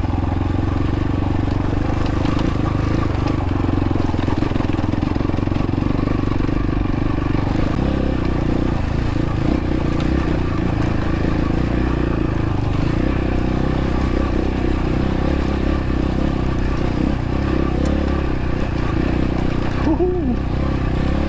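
X-Pro Templar X 250 dirt bike's single-cylinder four-stroke engine running steadily while being ridden, its note changing a little about eight seconds in.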